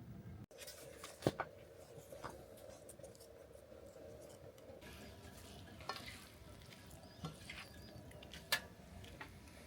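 Faint, scattered clicks and taps of cookware and utensils being handled, over a low steady hum; the sharpest taps come about a second in and near the end.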